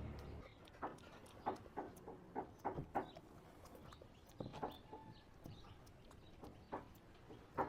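Faint, irregular little clicks and ticks of a monkey grooming a cat, picking through its fur, with one louder click near the end.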